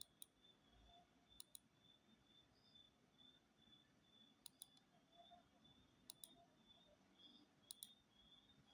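Computer mouse double-clicking: about five quick pairs of sharp clicks spread through an otherwise near-silent stretch, with a faint pulsing high whine in the background.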